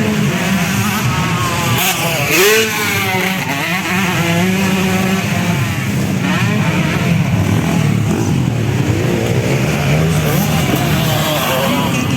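Several 250cc motocross bikes racing, their engines revving up and down together as they work the throttle around the track. The loudest bike is about two seconds in.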